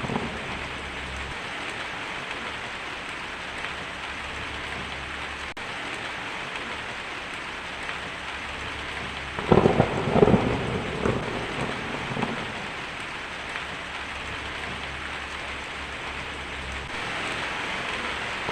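Steady heavy rain, with a crackling clap of thunder about halfway through that lasts a couple of seconds and then fades back into the rain.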